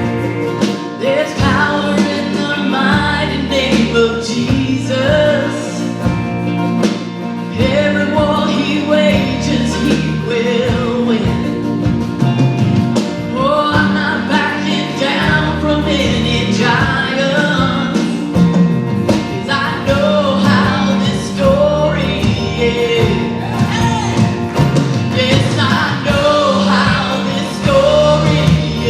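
Church worship band playing a song with singing: a sung melody over steady held bass notes.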